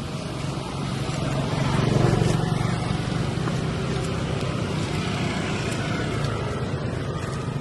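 A motor engine running with a steady low hum that swells about two seconds in and then holds steady.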